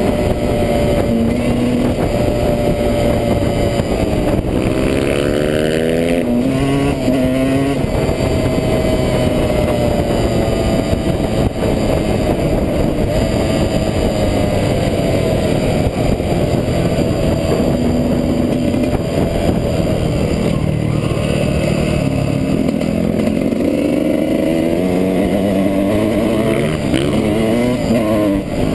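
Dirt bike engine ridden hard off-road, its pitch climbing and dropping again and again as the rider opens the throttle and shifts, over heavy wind and ride noise.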